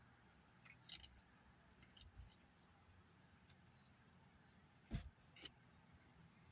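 Near silence broken by a few scattered clicks and knocks: a small cluster about a second in, more around two seconds, and a sharper pair about five seconds in.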